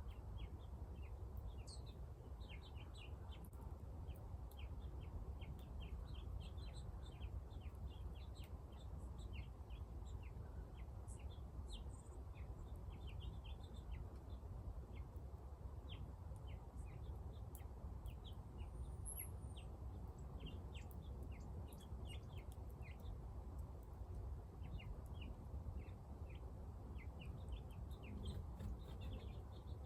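Many small birds chirping in short, quick calls throughout, over a steady low rumble.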